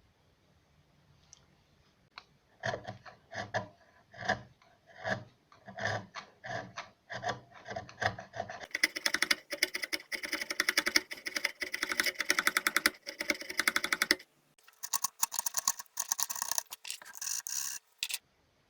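Wood being abraded by hand in strokes: slow, separate scraping strokes at first, then fast back-and-forth strokes from about nine seconds in, a brief pause near fourteen seconds, and a second run of fast strokes.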